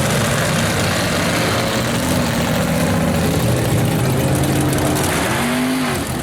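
Mud truck engine running loud and rough under a heavy wash of noise, with the revs rising and falling twice near the end.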